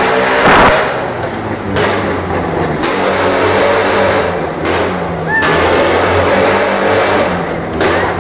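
Jawa motorcycle engine running, its note rising and falling as it is revved, with a loud burst of noise about half a second in.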